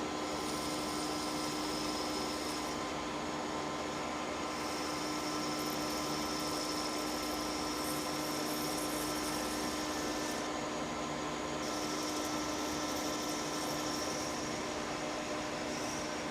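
Metal lathe running steadily with a fixed motor hum, while a higher hiss from the cutting tool comes and goes in three stretches as the part is turned down to fit.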